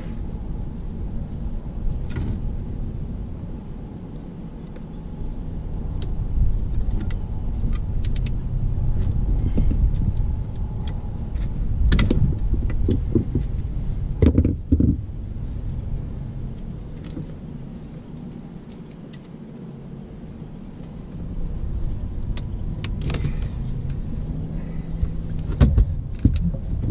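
A low rumble that swells and fades, with scattered knocks and rattles in a boat, the loudest about twelve and fourteen seconds in and again near the end.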